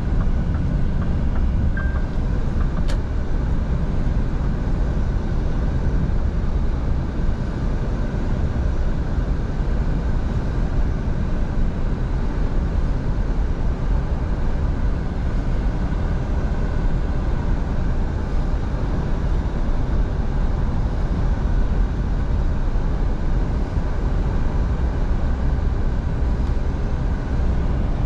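Scania V8 diesel truck on the move: steady engine and road noise with no change in pace.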